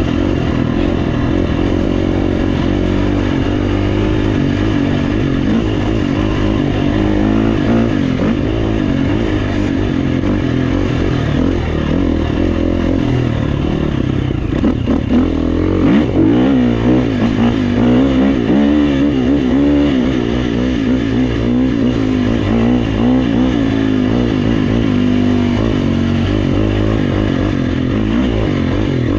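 Four-stroke dirt bike engine (a GasGas EX350F) being ridden along a trail, its pitch rising and falling continuously with the throttle and gear changes, with quicker throttle blips about halfway through.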